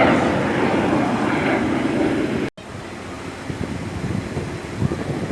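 Aerobatic jet aircraft flying past, their engine noise fading over the first couple of seconds. After a brief cut, wind buffets the microphone.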